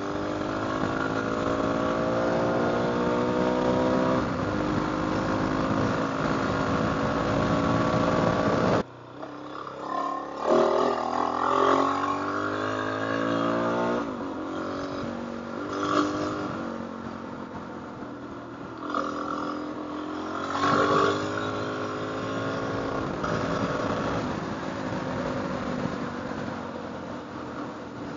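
Motorcycle engine pulling under throttle while riding, its pitch climbing and falling as revs rise and drop with the throttle and gear changes. Heavy wind rushes over the microphone until it stops abruptly about nine seconds in.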